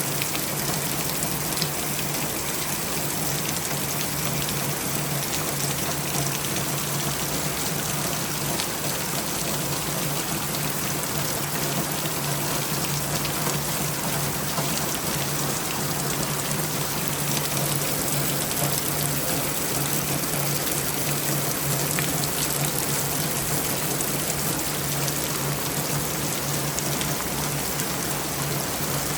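Steady rain falling, a continuous even hiss with a few faint drop ticks, over a steady low hum.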